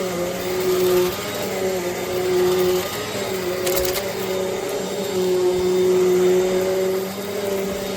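Eureka NEU10AE5 bagless upright vacuum cleaner running, a steady motor hum whose pitch wavers slightly as it is pushed along. There is a brief click about four seconds in.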